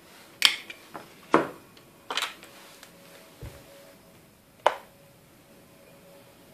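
Four sharp clicks and knocks, irregularly spaced, as the Roomba 563 robot vacuum is handled, over a faint steady tone.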